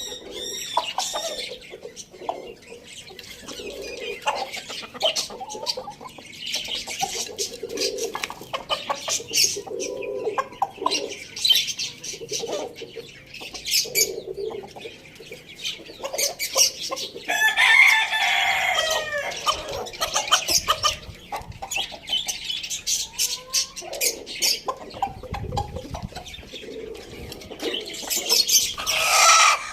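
Chickens clucking low and repeatedly while pecking at food, with quick sharp clicks throughout. One loud, longer call about eighteen seconds in, and another near the end.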